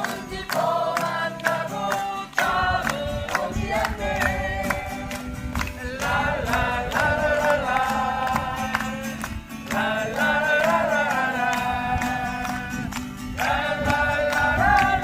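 A group of voices singing a song together over strummed acoustic guitar with a steady beat, in phrases with short breaks between them.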